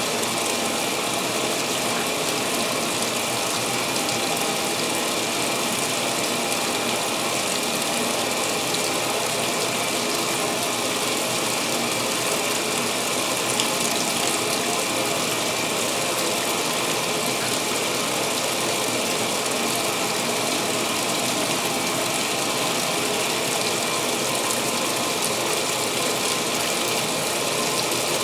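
2016 Speed Queen top-load washer filling for its pre-wash: a steady rush of water pouring into the tub.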